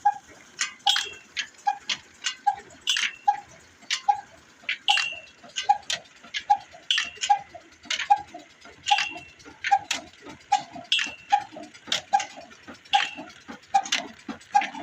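Old Ruston single-cylinder stationary engine running slowly and evenly, with a regular beat of a little over two a second, ticking valve-gear clicks between the beats, and a louder, sharper clank about every two seconds.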